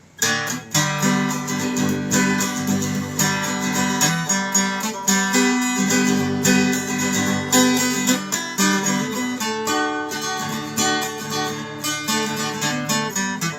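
Instrumental break of a song led by strummed and picked acoustic guitar.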